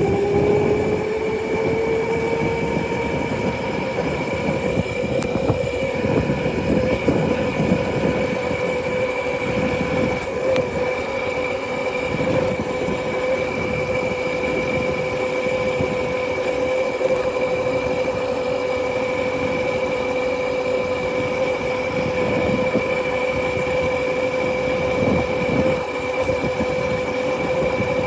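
Motorcycle under way: a steady high whine that rises a little in pitch at the start as it picks up speed, then holds steady, over a rough rushing noise.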